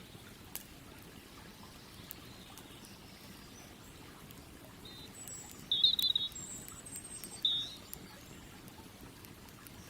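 A campfire crackling faintly, a steady low hiss with an occasional sharp pop. A bird gives a few short chirps about halfway through, the loudest sounds here.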